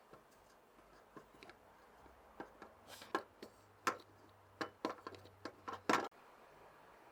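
A series of irregular light clicks and knocks, a few at first and then more often and louder, ending with a sharper knock about six seconds in, after which they stop.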